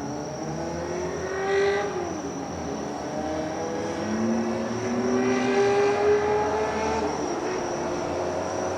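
Road traffic: motor vehicle engines passing and speeding up, their pitch gliding up and then falling away.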